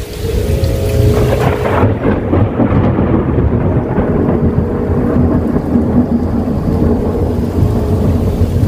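Thunderstorm: steady heavy rain with a deep rumble of thunder that swells about a second in.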